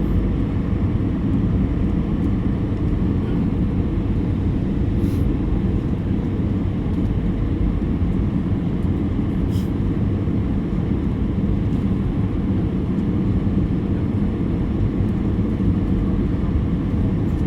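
Steady low rumble inside an Airbus A320's cabin, from the engines and airflow, with two faint ticks about five and ten seconds in.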